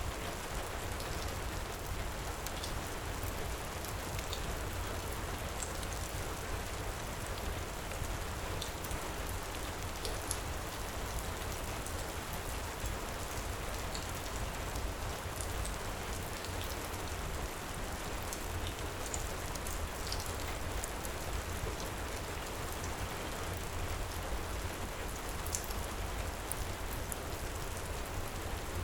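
Heavy rain pouring steadily, with a low rumble beneath it and scattered small crackles from a fireplace.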